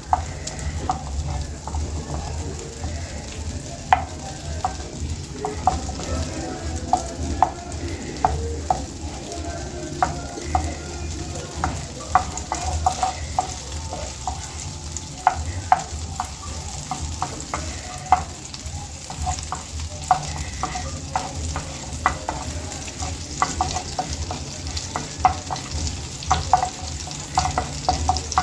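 Butter melting and sizzling in a hot pan, with a cooking utensil repeatedly clicking and knocking against the pan as it is stirred, in irregular sharp ticks about once or twice a second.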